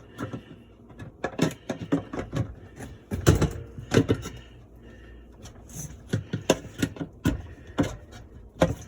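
Plastic dishwasher parts being handled and fitted into place, with irregular clicks and knocks, a couple louder ones about three and four seconds in.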